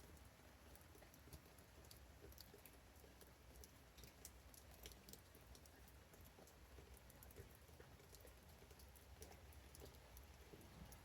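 Faint light rain: scattered raindrops ticking irregularly, over a low steady rumble.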